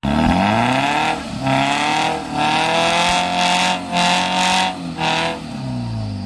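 Maruti Gypsy and Mahindra Thar engines revving hard together during a tow-strap recovery, the stuck Gypsy's wheels spinning in mud. The revs climb right at the start, hold high with some rise and fall, and drop away near the end.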